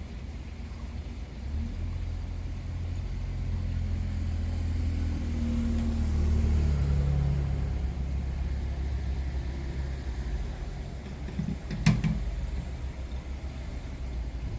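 Low rumble of a motor vehicle's engine, swelling to its loudest about six seconds in and then easing off, with one sharp click near the end.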